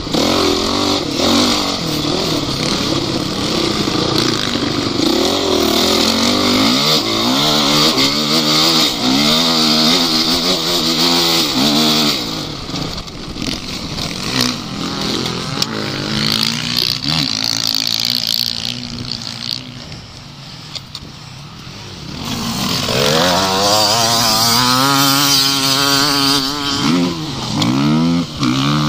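Off-road vehicle engine revving hard and easing off again and again, the pitch rising and falling. It drops quieter for a few seconds past the middle, then revs loudly again.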